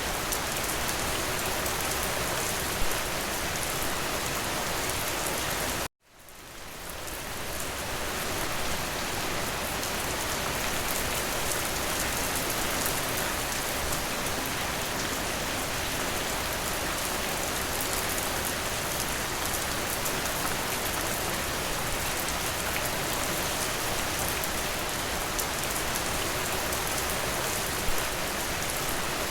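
Steady rain, a dense hiss of many drops. About six seconds in it cuts out abruptly and fades back in over a couple of seconds.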